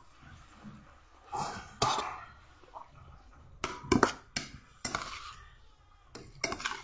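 Close-up eating noises, likely someone chewing crunchy ampalaya: a string of sharp clicks and short crunchy bursts at uneven intervals.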